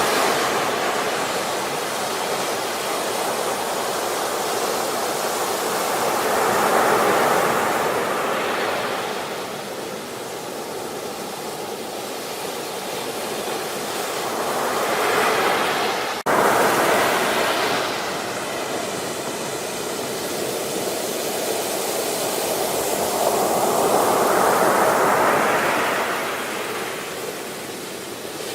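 Ocean surf breaking and washing up the shore, swelling and ebbing in waves roughly every eight to nine seconds, with a brief dropout about halfway through.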